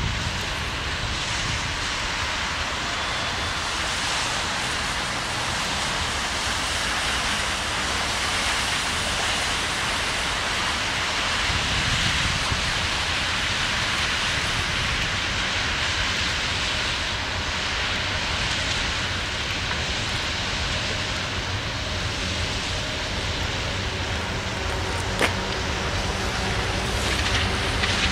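Twin-section 2TE116 diesel locomotive hauling a freight train of tank wagons: the steady noise of its diesel engines and of wheels rolling on the rails, with one sharp click near the end.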